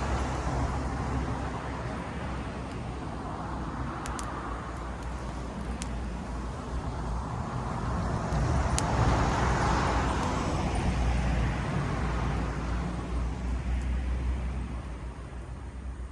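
A road vehicle passing by: a steady rumble and hiss that swells to its loudest about nine to ten seconds in and fades near the end, with a few faint sharp clicks.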